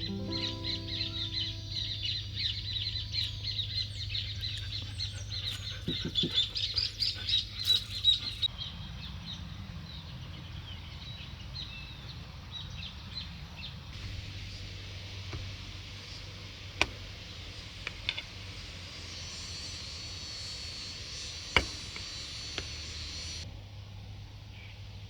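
Small birds chirping busily and rapidly for about the first eight seconds. After that comes quieter steady outdoor hiss, with a few sharp clicks.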